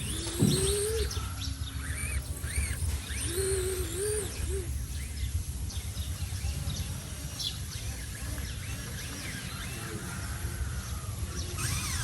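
Small birds chirping repeatedly in short rising-and-falling notes, over a steady low rumble. Twice in the first half, a lower wavering call also sounds.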